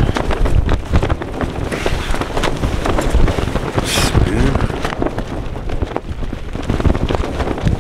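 Gale-force wind battering a Lanshan 2 tent: the wind rumbles on the microphone while the tent fabric keeps slapping and cracking.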